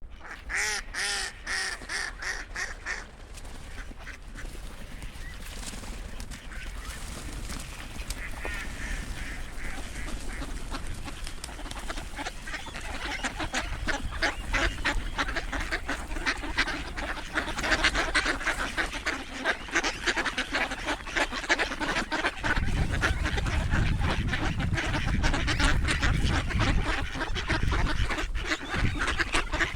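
A flock of ducks calling and quacking. There is a quick series of loud calls in the first few seconds, then a dense, rapid chatter of many birds that grows louder through the second half. From about two-thirds of the way in, a heavy low rumble of wind buffets the microphone.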